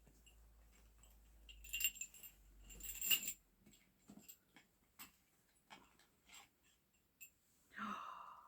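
Small metal witch's bells jingling in two short shakes, then light handling clicks and taps.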